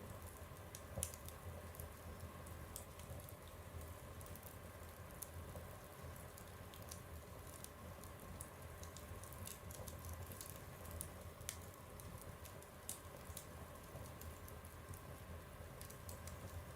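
Wood fire burning in a stove: faint, irregular crackles and small pops over a low, steady rumble.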